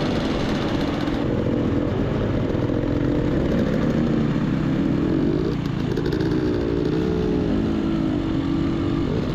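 Dirt bike engine running under load while riding over slick rock, its pitch rising and falling again and again with the throttle, over a steady rush of noise.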